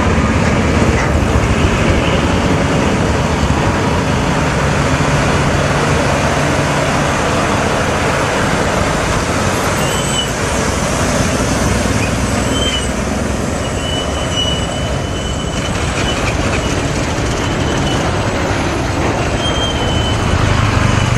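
Vehicle engine running with steady road and traffic noise, and a few brief high squeals in the second half.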